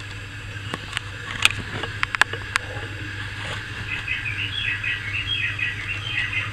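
A few sharp clicks, then a bird chirping in a quick run of short notes from about four seconds in, over a steady low hum.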